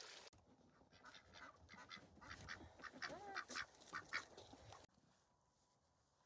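Ducks quacking, a quick run of short calls that stops abruptly near the end.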